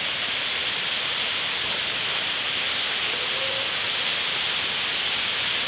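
Waterfall, a steady rushing hiss of falling water.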